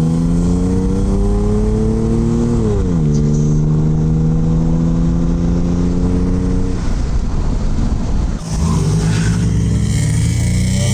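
Car engine accelerating hard, its pitch climbing and then dropping as it shifts up about three seconds in, then holding steady. From about seven seconds in the engine note gives way to a rushing noise, and near the end the engine climbs again.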